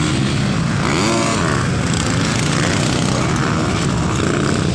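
Dirt bike engines running, one rising and falling in pitch about a second in as it revs.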